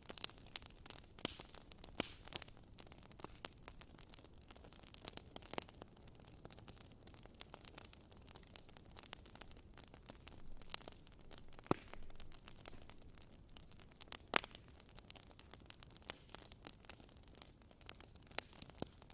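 Campfire crackling, with irregular sharp pops, the loudest about twelve and fourteen seconds in, over the steady, evenly pulsed high chirping of crickets.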